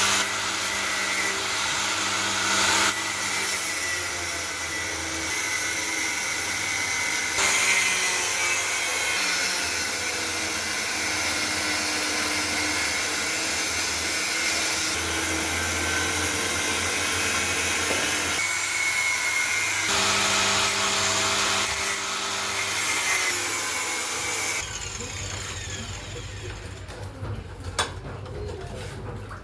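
Handheld electric power tool running steadily while cutting a new opening into a water tank. Its motor note shifts in steps as the load changes. It stops about 25 seconds in, leaving a few light clicks and knocks.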